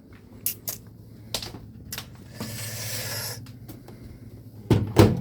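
A plate of nachos being handled into a microwave: a few light clicks, then about a second of hissy scraping. Near the end the microwave door shuts with two heavy thuds, over a low steady hum.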